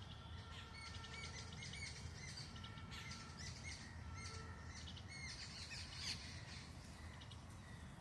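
Small birds chirping in quick, repeated high notes, over a low steady rumble.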